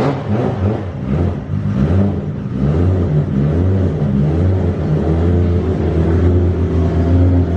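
Turbocharged stroker 2JZ straight-six of a 950 hp Toyota Supra drift car running just after being started, idling with a slightly wavering pitch.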